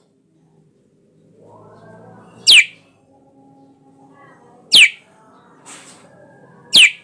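Sooty-headed bulbul calling: three loud, sharp calls, each sweeping steeply down in pitch, about two seconds apart, with softer twittering in between.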